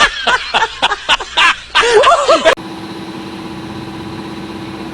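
Loud voices for about two and a half seconds, then an abrupt cut to the steady idle of a Suzuki Raider J 115 Fi motorcycle engine.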